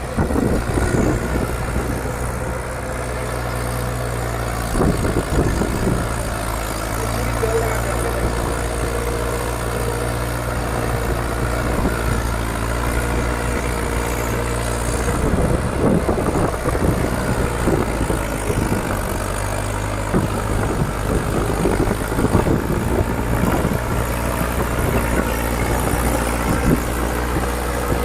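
Mahindra 575 DI XP Plus tractor's four-cylinder diesel engine running steadily, with rougher noisy stretches about five seconds in and again from about fifteen to twenty seconds.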